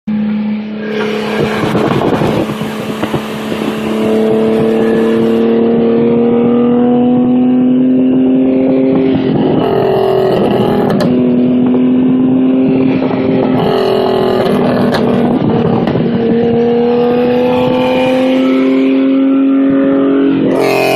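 BMW E36's exhaust as the car pulls under load: a loud, steady engine drone whose pitch climbs slowly, then drops back about twice, as at gear changes.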